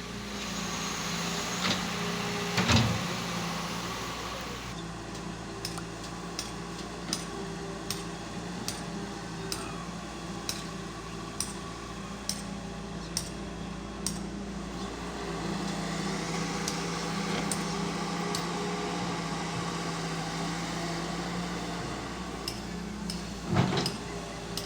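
Excavator's diesel engine running steadily. A loud knock comes about three seconds in and again near the end, and through the middle a string of sharp clicks repeats a little faster than once a second.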